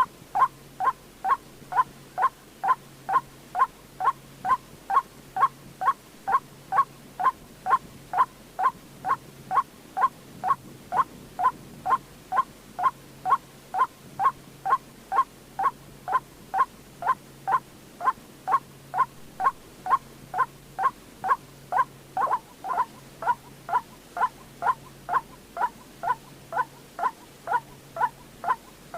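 White-breasted waterhen calling: one short hooked note repeated steadily about twice a second without a break.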